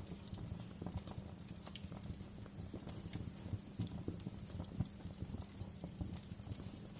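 Wood fire crackling in a fireplace: irregular snaps and pops over a dense low crackle, with one sharper pop about five seconds in.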